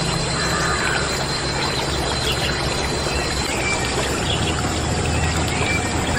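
Steady running or pouring water, with a low hum underneath.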